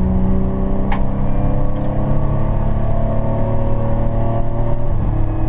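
The 4.3-litre Vortec V6 of a 2001 Chevy S-10, with a straight 3-inch exhaust and single muffler, pulling hard under full throttle, its pitch climbing slowly. About five seconds in, the engine note changes. A single sharp click is heard about a second in.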